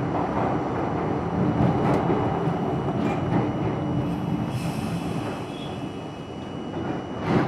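R42 subway train running along the track: a steady rumble and rattle of wheels on rail, with a sharp clack near the end.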